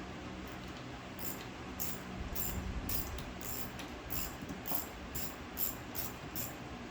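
Socket ratchet wrench being worked in short strokes, each back-swing giving a brief burst of clicking, about two strokes a second, as a bolt is turned.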